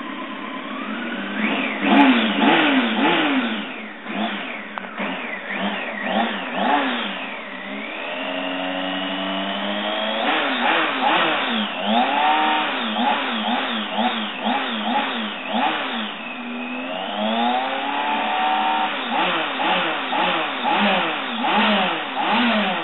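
Kawasaki ZX-14's inline-four engine through its stock OEM exhaust, revved again and again in quick throttle blips that rise and fall. Twice it is held briefly at steady raised revs.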